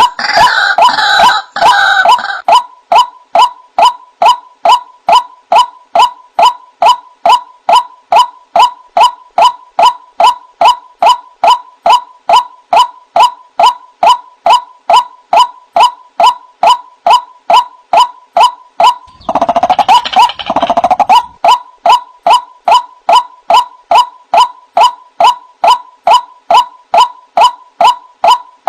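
White-breasted waterhen (ruak-ruak) calling: a monotonous run of short, even notes at about two a second, with two stretches of harsher, fuller croaking calls, one at the start and one about two-thirds of the way through.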